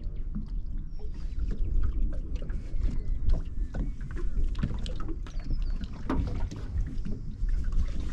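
Water slapping against a small boat's hull, with wind rumble on the microphone and scattered sharp clicks and knocks.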